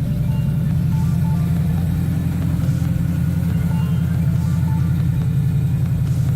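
1981 Chevrolet Caprice engine idling steadily through a straight-piped exhaust with no muffler, a low, even, pulsing rumble.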